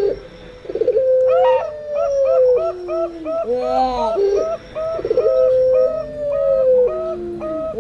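Zebra doves (perkutut) and puter pelung doves cooing together: long drawn coos that hold then slide down in pitch, layered with quick runs of short rising-and-falling coo notes, the pattern repeating about every four seconds.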